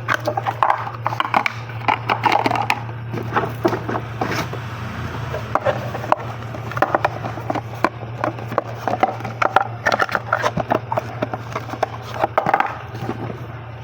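Irregular clicks, knocks and rustling of cosmetic racks being handled and unpacked from their packaging.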